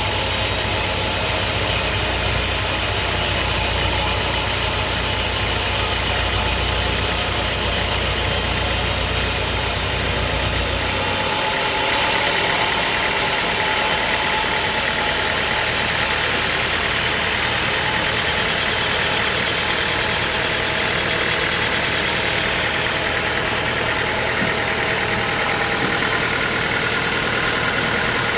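Sawmill machinery running steadily with a dense mechanical din; a deep low hum under it stops abruptly about eleven seconds in.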